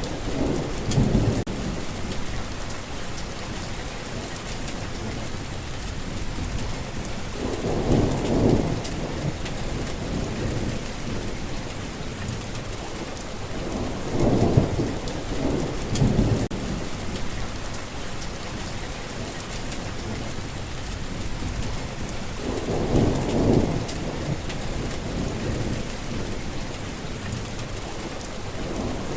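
Steady heavy rain hissing, with short low rumbles of thunder coming back about every seven seconds, four times.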